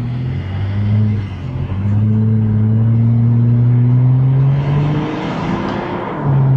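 2020 Acura TLX's V6 under acceleration through a custom catback exhaust with the stock resonators and mufflers deleted and two Vibrant Ultra Quiet resonators fitted, heard from inside the cabin. The engine note climbs steadily in pitch, dips and softens about five seconds in, then comes back louder near the end.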